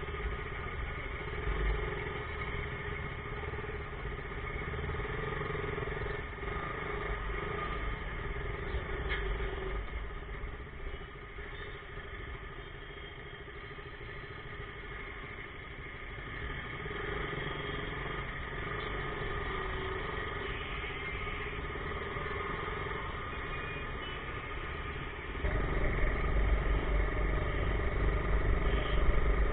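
Motorcycle engine running in city traffic, steady at first and getting clearly louder near the end.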